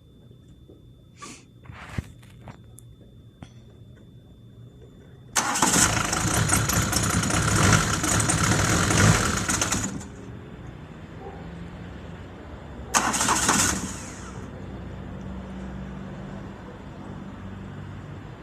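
A few clicks, then about five seconds in the Citroen BX's 1.9 turbodiesel four-cylinder is cold-started: it starts abruptly and runs loudly for about four seconds before dropping to a lower idle, with a short loud burst again near the 13-second mark. The owner says one cylinder is not firing and wonders whether compression is the cause.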